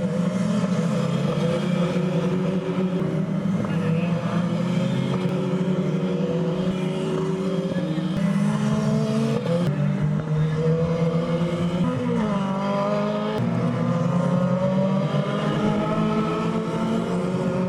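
Renault Clio Cup race car engine under hard acceleration on track. The revs climb steadily through each gear and drop sharply at gear changes, several times.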